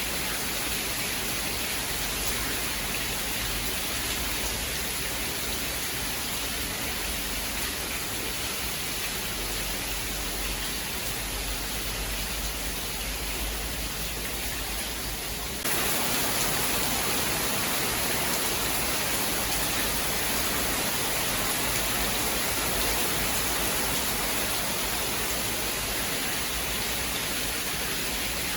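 Steady rain, a continuous even hiss with no thunder; about halfway through it abruptly turns louder and brighter and stays that way.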